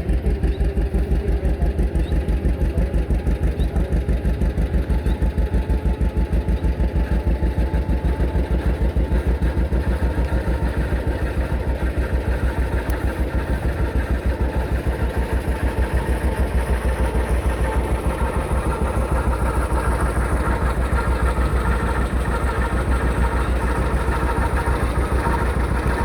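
Tractor engine running steadily at low speed, its exhaust making an even, low pulsing beat.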